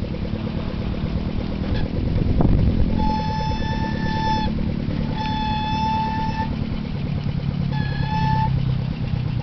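Small petrol hoist engine running steadily, with one sharp knock about two and a half seconds in. A high steady tone sounds in three long blasts over it, from about three seconds in.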